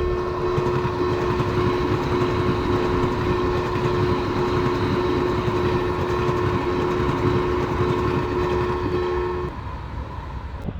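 Train running through a railroad crossing. Over its rumble, a steady two-note tone continues until about nine and a half seconds in, then stops, and the rumble fades down.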